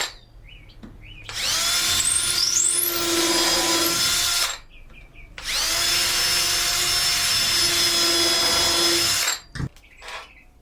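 Cordless drill/driver running twice for about three to four seconds each, its whine rising as it spins up and then holding steady, driving 3-inch star-head deck screws into wood.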